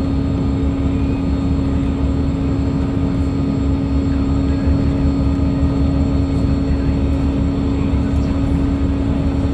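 Toppy 2 jetfoil high-speed boat running, its gas-turbine engines giving a steady, loud drone with a constant hum held at one pitch over a low rumble.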